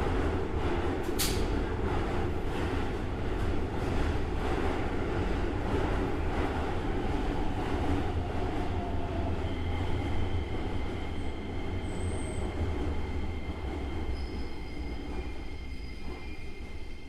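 Express train arriving at the neighbouring platform and braking to a stop: a steady rumble with some wheel squeal that fades in the last few seconds. From about ten seconds in, a few steady high whines come in from the slowing train.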